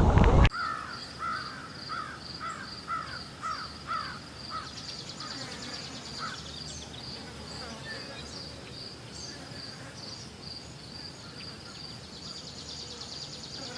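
A loud rushing noise cuts off about half a second in. A bird then calls repeatedly with short falling calls, about two a second, for several seconds. Insects chirp in a steady high-pitched pulse throughout.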